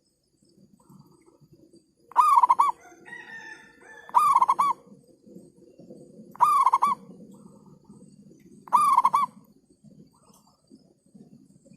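Zebra dove cooing: four loud calls about two seconds apart, each a quick run of two or three notes.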